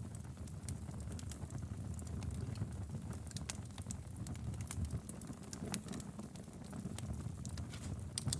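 Wood fire crackling in a fireplace: a steady low rumble of the flames with frequent irregular sharp pops and snaps.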